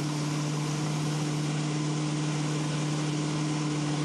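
Tow boat's engine running at a steady speed, a constant low drone under a broad hiss of wind and water.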